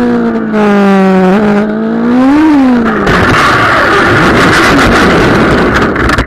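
Superbike racing motorcycle engine at high revs, its pitch falling, rising to a peak and falling again, then giving way about halfway through to a loud rushing noise that cuts off suddenly at the end.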